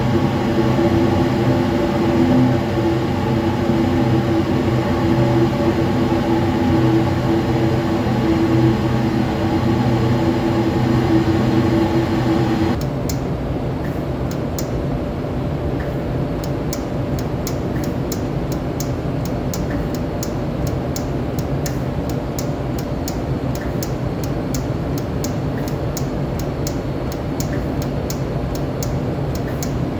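A machine running with a steady hum. About 13 seconds in it gives way to a rougher running sound with a regular ticking, about two to three ticks a second.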